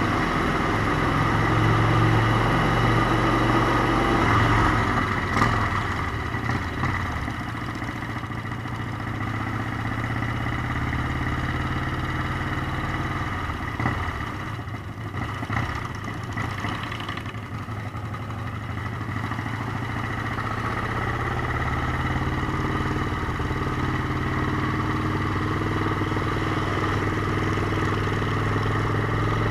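Motorcycle engine running steadily while riding; the engine note eases off in the middle and builds again toward the end.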